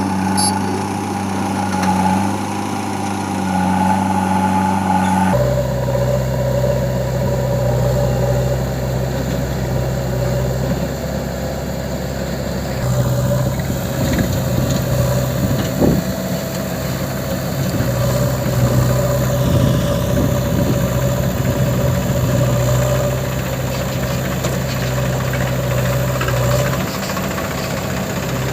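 Heavy diesel machinery engine running steadily under light load; about five seconds in the note changes abruptly to a lower steady hum.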